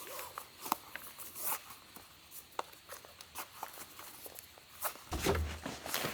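Footsteps on a forest road, a series of irregular light steps, with a brief low rumble about five seconds in.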